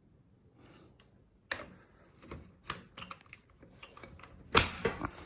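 Scattered clicks and clacks of a quick-disconnect steering wheel hub being worked by hand, ending in a loud snap about four and a half seconds in as the wheel locks onto the hub, followed by a couple of smaller clicks.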